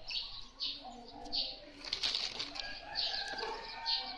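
Small birds chirping repeatedly in short, irregular calls, with a few sharp clicks among them.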